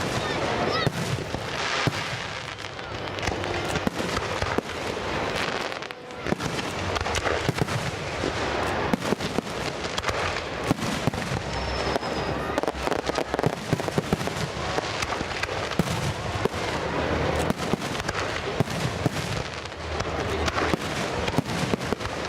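Fireworks display going off: a dense, continuous run of sharp pops and crackling reports, with no pause.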